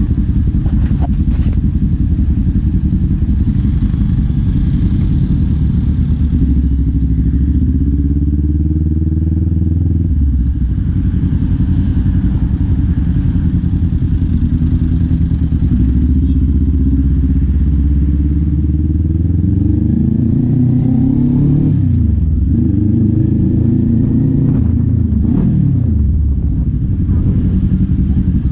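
Kawasaki Z400 parallel-twin engine and exhaust under way, the revs climbing and dropping back several times, with sharp drops about ten seconds in and again about twenty-two seconds in.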